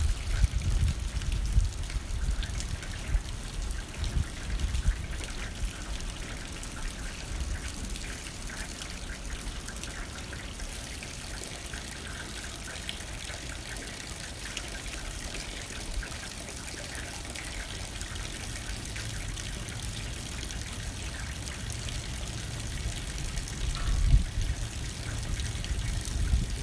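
Steady rain pattering on a window pane, with gusts of wind buffeting low at the start and again picking up near the end.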